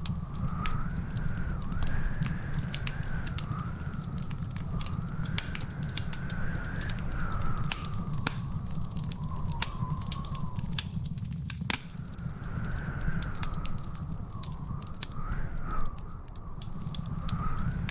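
Wood fire crackling in a fireplace, with many sharp irregular pops and snaps over a steady low rumble. A faint, wavering high whistle runs alongside it.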